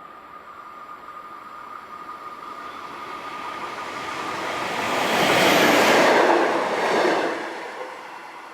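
A vehicle passing by: a rushing noise that builds slowly, is loudest about five to seven seconds in, then fades quickly.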